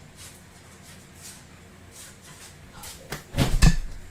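A man coughing and sputtering hard on a mouthful of dry ground cinnamon, a sudden loud burst of about half a second three seconds in, after a few quiet seconds.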